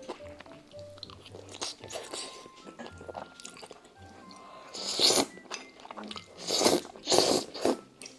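Close-miked eating sounds over light background music: chewing and biting into stir-fried budae bokkeum, with loud, noisy mouthfuls about five seconds in and three more near the end.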